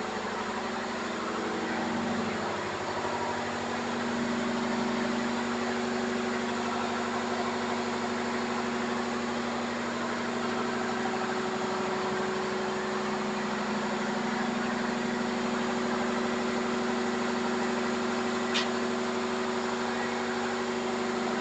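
Ship's engine-room machinery running steadily: a constant engine drone with a steady hum, and one short sharp click near the end.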